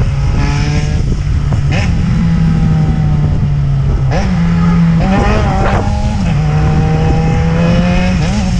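Yamaha XJ6's 600 cc inline-four engine running under way, its note climbing slowly as the bike pulls. Around the middle the pitch steps up and down a few times, with wind rumble throughout.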